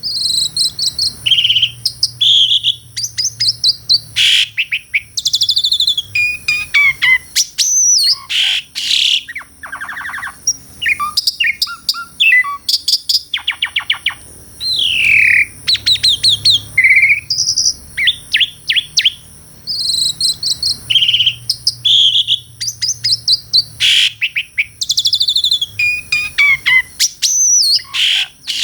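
Asian pied starling (jalak suren) singing a long, varied song of whistles, swooping glides and rapid harsh rattles, phrase after phrase with only short breaks.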